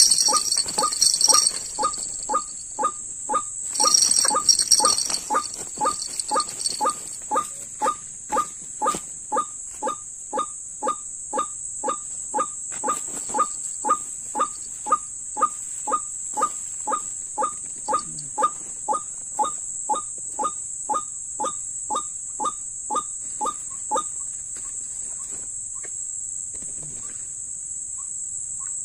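White-breasted waterhen calling a long, even run of repeated 'ruak' notes, about two or three a second, which stop about 24 seconds in. A steady high insect drone runs underneath.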